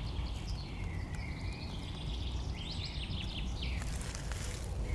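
Small songbirds chirping and trilling in a spring forest, with a quick run of notes a little after halfway, over a steady low rumble.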